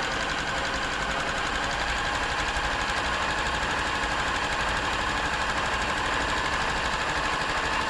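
Pfaff-built Silver 1139 domestic sewing machine running continuously, sewing a decorative stitch pattern as a test: a fast, even mechanical rattle of the needle and feed mechanism with a steady motor whine.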